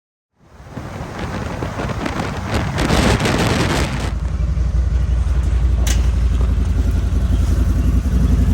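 A motor vehicle running, a steady low engine and road rumble, with a loud rushing hiss over it for the first few seconds and a single sharp click about six seconds in.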